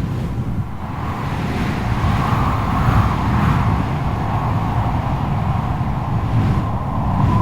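Strong gusting wind: a deep, uneven rushing rumble with a high whistling howl that wavers in pitch over it.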